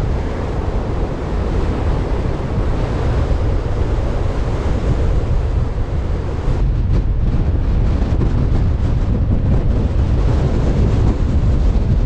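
Strong wind buffeting the microphone: a heavy, steady rumble that grows a little louder about halfway through.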